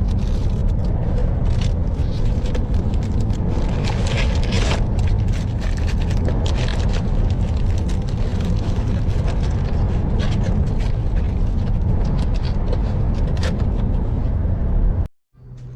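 Steady low road rumble of a car driving, with scattered clicks and rattles over it. It cuts off suddenly near the end.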